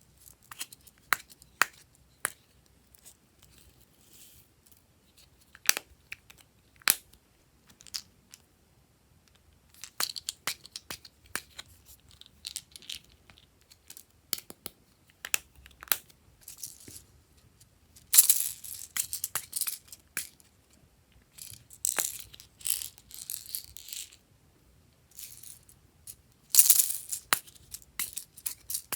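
Glossy slime being squished, stretched and folded by hand, giving sharp wet clicks and crackly pops in irregular bursts, loudest and densest in several spells of a second or two in the second half.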